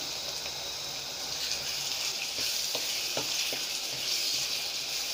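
Chicken mince sizzling in hot oil in a pan as it is stirred and broken up with a wooden spatula, with a few light taps and scrapes of the spatula. The sizzle grows a little louder after about a second and a half.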